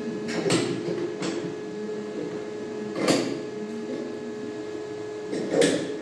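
A few sharp knocks over a steady hum: two faint ones early, a louder one about three seconds in and the loudest near the end.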